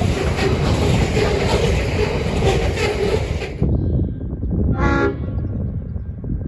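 Freight train's hopper wagons rolling past with clattering wheel noise, which drops away suddenly about three and a half seconds in as the last wagon clears, leaving a low fading rumble. A single short toot sounds about a second and a half later.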